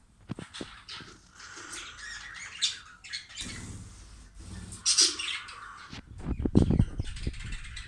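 Budgerigars chirping and chattering in a mixed aviary with quail, in bursts of busy calls, with occasional low thumps and rustling from the birds moving about.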